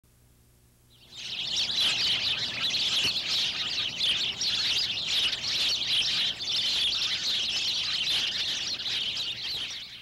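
A chorus of birds chirping and twittering densely, with many short overlapping calls. It starts about a second in and cuts off abruptly at the end.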